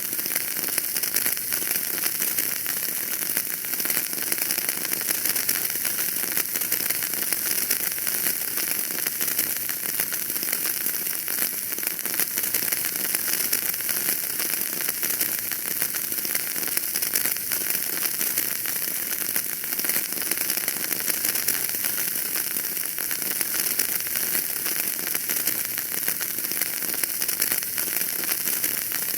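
Wood fire burning in a fireplace, crackling steadily: a dense run of small pops and snaps over a constant hiss.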